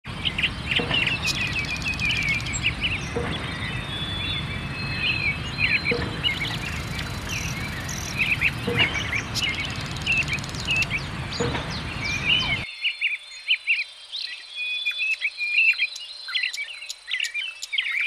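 Several birds chirping and twittering in quick, overlapping short calls, over a steady low background noise that drops out suddenly about 13 seconds in, leaving the chirps over quieter air.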